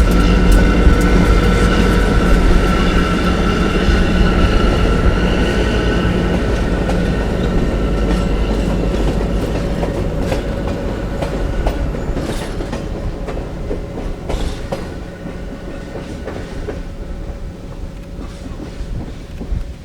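CSXT geometry train moving off, its diesel locomotive running with a low rumble and a steady whine while the wheels click over the rail joints. The sound fades steadily as the train pulls away.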